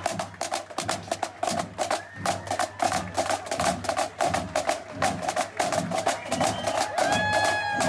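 A live band playing, led by fast, crisp percussion strikes, about five or six a second, over a steady sustained note, with a held higher note near the end.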